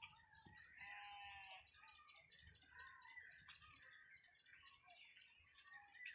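Steady, high-pitched drone of insects. About a second in, a chicken gives a short call, with scattered faint bird chirps around it.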